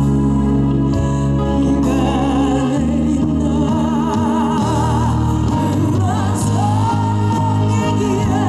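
Live band playing a slow ballad: sustained chords under a melody line with wide vibrato, which slides up into a long held note near the end.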